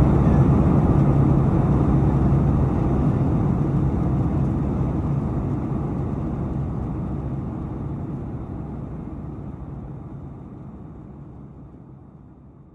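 Airliner cabin noise in flight: a steady low rush of jet engines and airflow with a low hum under it, fading out gradually over the second half.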